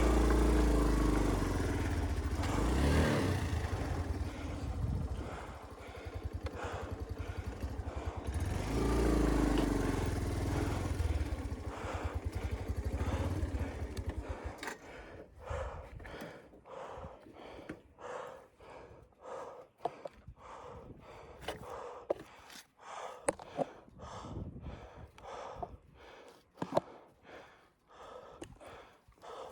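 Motorcycle engine running and revving as the bike works over a rough, rocky track, swelling twice. About halfway through the engine sound drops away, leaving a string of irregular crunches and clicks on loose stones.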